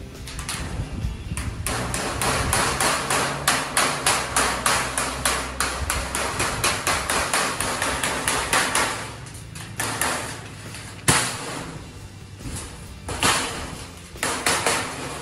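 Hammer striking the edge of a thin galvanized iron sheet held against a steel square-tube frame, metal on metal. The blows come quickly and evenly, about three a second, for the first nine seconds or so, then slow to scattered single strikes.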